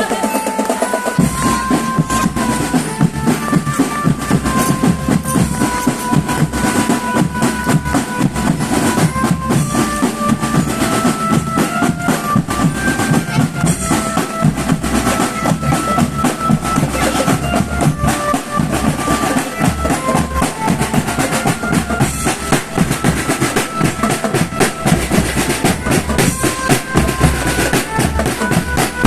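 Marching band playing: snare and bass drums beating steadily under a melody of held notes.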